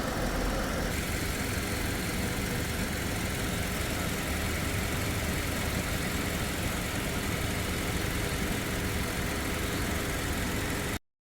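Hyundai LF Sonata LPG engine idling steadily, cutting off abruptly near the end.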